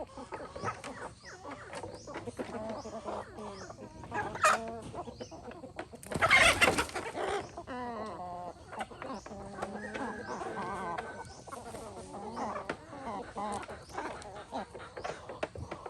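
Free-range chickens clucking, many short calls overlapping, with a louder, harsher noisy burst about six seconds in.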